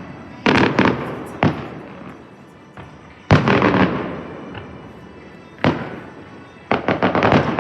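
Aerial fireworks bursting in a show: sharp bangs about half a second in, at about a second and a half, at about three seconds and near six seconds, then a quick run of several bangs near the end, each trailing off after the hit.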